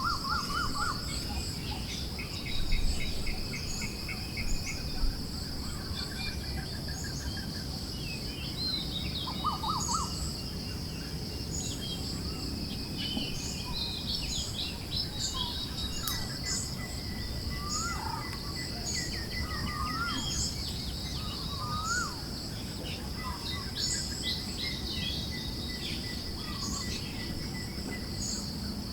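Forest birds chirping and calling in short scattered phrases, over a steady high, pulsing insect buzz and a low, even hiss of wind.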